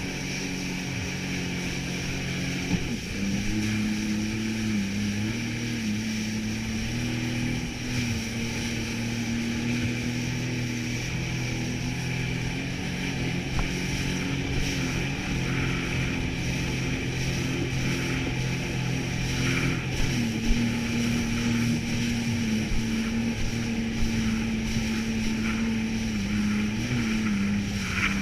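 Jet ski engine running while under way, a steady drone whose pitch steps up about three seconds in and shifts a few more times, with a rush of wind and water.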